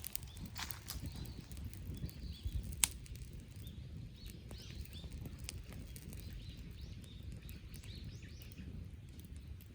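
Wood campfire crackling over a low steady rumble, with a few sharp pops, the loudest a little before three seconds in, and many faint small crackles later on.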